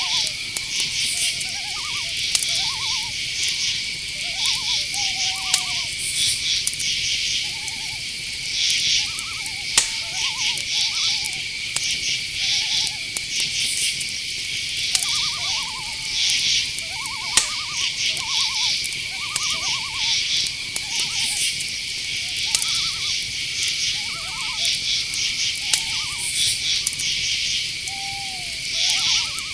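Night forest ambience: crickets chirping in rapid pulsing bursts over a steady high-pitched insect drone, with many short trilled calls lower down, some falling in pitch. A couple of sharp clicks stand out.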